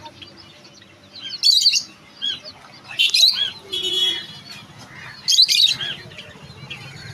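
Caged budgerigars chirping and chattering, with three loud bursts of quick high chirps about every two seconds and softer chirping between them.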